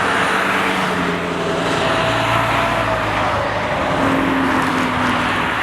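Motor vehicle engine and road noise: a steady rush with an engine hum whose pitch shifts a couple of times.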